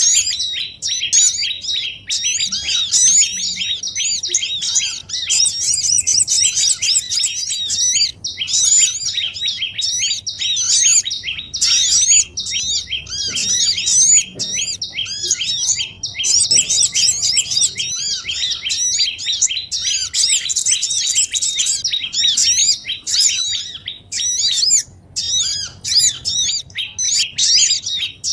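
Bird-lure recording of small songbirds: a busy chorus of rapid, high chirps and twitters, many calls overlapping with only momentary breaks, played to draw small wild birds down.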